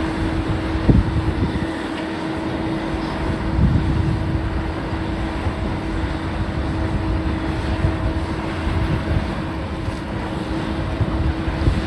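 Heavy demolition machinery running with a steady engine drone over low rumbling, with a sharp thump about a second in.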